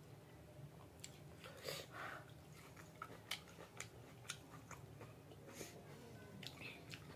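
Faint chewing of a mouthful of dal bhat, with scattered soft mouth clicks and smacks.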